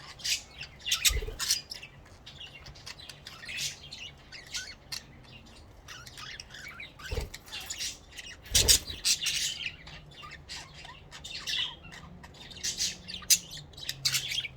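Pet budgerigars chattering, with rapid high chirps and squawks. Three short knocks sound about a second in, at around seven seconds and at around eight and a half seconds.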